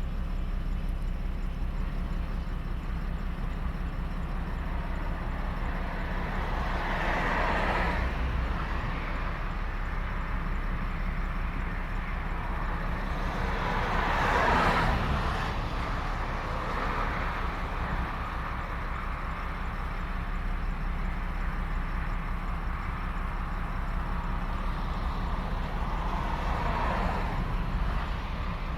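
Vehicles passing one after another over a steady low rumble, each swelling and fading; the loudest pass is about halfway through, with others around a quarter of the way in and near the end.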